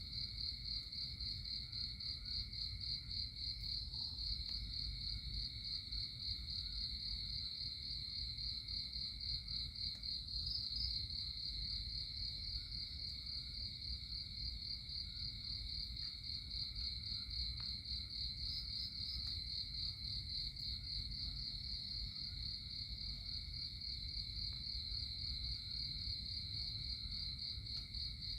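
Insects trilling continuously in a steady, high, rapidly pulsing chorus, over a low steady rumble.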